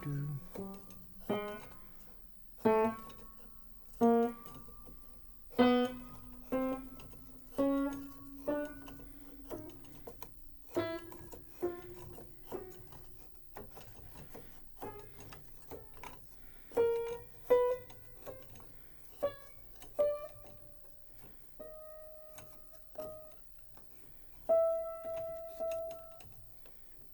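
Aldrich spinet piano played one key at a time, single notes struck and left to ring. The notes climb step by step up the keyboard.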